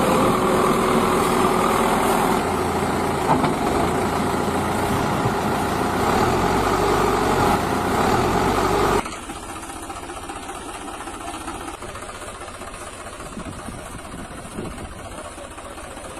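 A vehicle engine idling steadily. About nine seconds in it cuts off abruptly and a quieter engine sound runs on.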